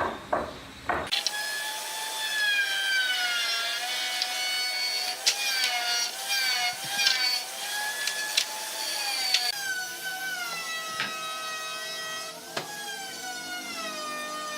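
Power tool cutting wood: a high motor whine that starts abruptly about a second in, its pitch sagging and recovering as it bites into the wood, with a few sharp clicks.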